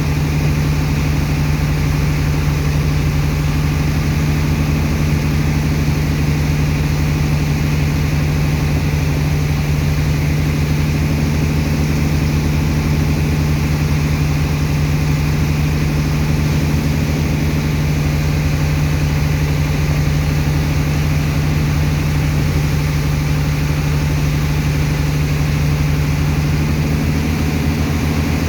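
Engine of a sand-unloading dredge pump running steadily at constant speed: a loud, even, low hum.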